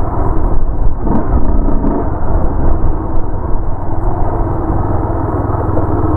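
Loud wind buffeting on a helmet-mounted microphone on a moving motorcycle, with the bike's engine running steadily underneath.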